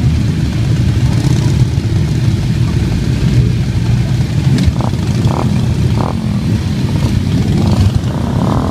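Motorcycle engines running together in a steady low rumble, as bikes arrive for a charity run.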